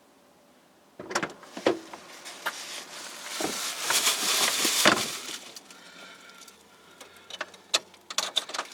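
Handling noise close to the microphone: after about a second of near silence, a run of sharp knocks and clicks with a rustling swell in the middle and more scattered clicks near the end.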